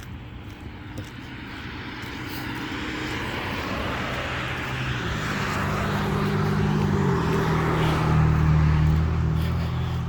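A vehicle passing by: an engine hum with a rushing noise grows steadily louder over several seconds. The hum drops in pitch about seven seconds in, and the sound is loudest near the end.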